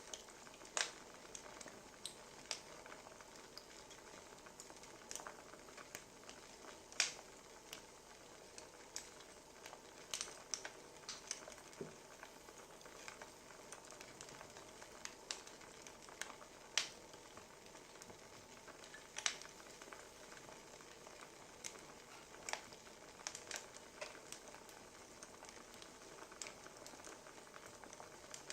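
Wood fire crackling: irregular sharp pops and snaps, a few louder ones, over a steady soft hiss.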